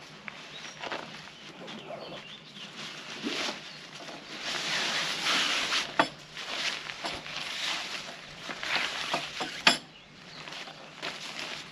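Rustling and handling noises that come in uneven swells, with two sharp clicks, one about halfway through and one near the end.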